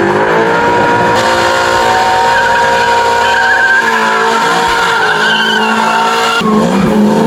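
Classic Ford Mustang V8 doing a burnout: the revs climb at the start and are held high while the rear tyres squeal and spin. Near the end the tyre squeal stops and the engine drops to lower revs.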